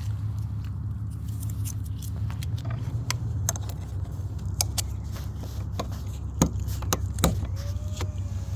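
Small electric pool-cover pump running with a steady low hum as it pumps rain water off the cover. Scattered light clicks and jangles sit on top of it, the loudest two about six and a half and seven seconds in, and a thin steady whistle starts near the end.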